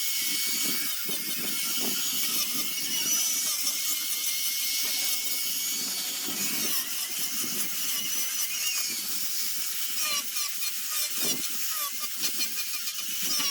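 Power sanding tool grinding zelkova root wood: a steady high-pitched whir and rasp, with short repeated scrapes in the last few seconds.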